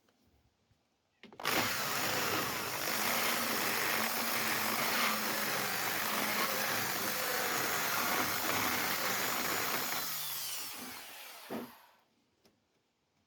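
Power drill spinning a carbide burr against the steel of a windscreen pillar, grinding rust and paint back to clean metal. It starts suddenly about a second in, runs steadily for about nine seconds, then winds down and stops near the end.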